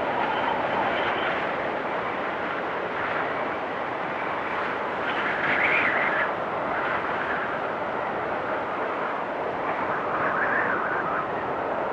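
Storm wind blowing steadily, with whistling tones that shift up and down in pitch; the whistle is highest and strongest about five to six seconds in.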